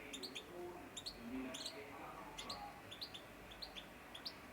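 Canaries chirping: short, high chirps one after another, irregular and overlapping.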